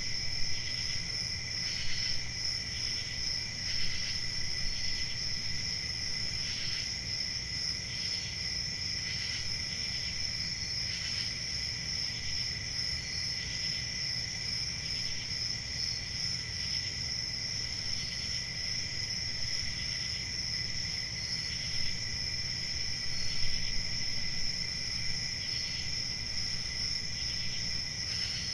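A chorus of crickets chirping without a break. A continuous high trill carries on throughout, with fainter, scattered chirps from other crickets over it, above a low background rumble.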